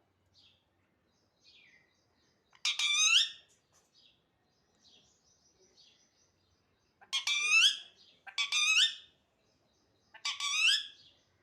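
Parrot calling: four loud, rich calls, each under a second, one about three seconds in and three more in quick succession in the last four seconds, with faint short chirps between them.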